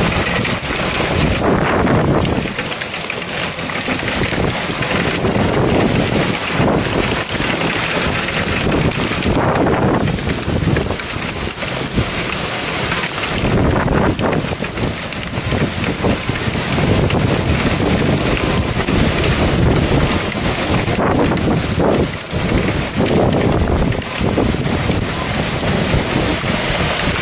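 Heavy rain mixed with hail pelting down on roofs, cars and pavement in a thunderstorm, a loud dense hiss that surges and eases every few seconds. Gusts of wind buffet the microphone with a low rumble.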